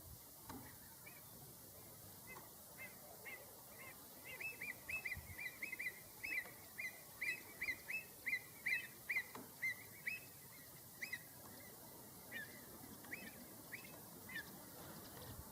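Avocet giving a rapid series of short, sharp calls, each dipping slightly in pitch. They come thick and fast from about four seconds in and thin out towards the end: agitated calls at other birds around it.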